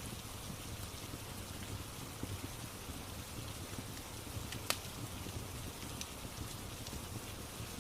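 Steady rain falling, with the occasional sharp crackle and pop of a wood fire, the loudest pop about two-thirds of the way through.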